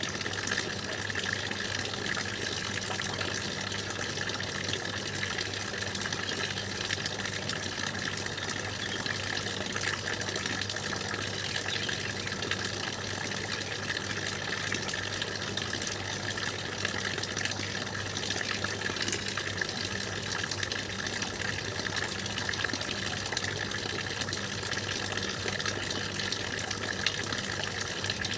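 Stream water flowing and gushing steadily, an unbroken rush of running water.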